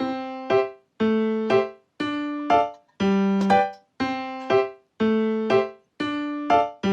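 Background piano music: a chord struck about once a second, with a shorter chord half a second later, each ringing and dying away in a steady repeating rhythm.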